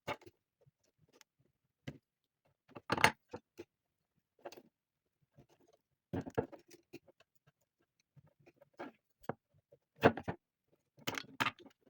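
A small knife prying open and unscrewing the dust caps on a bicycle pedal: scattered clicks and scrapes, the loudest about three seconds in and again about ten seconds in.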